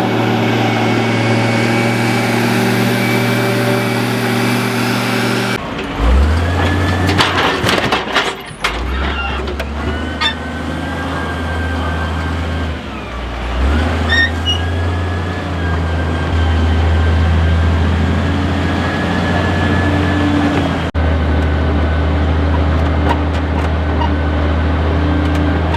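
Large school bus engine running steadily, heard in several short clips joined by abrupt cuts, with a rapid burst of clattering knocks about six to eight seconds in.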